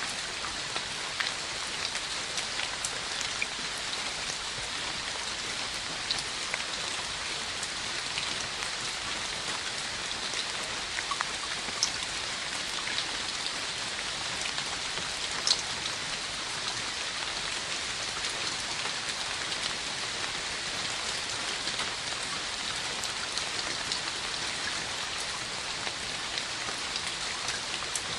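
Steady rain falling: an even hiss with scattered individual drops ticking close by, a few sharper drop hits standing out.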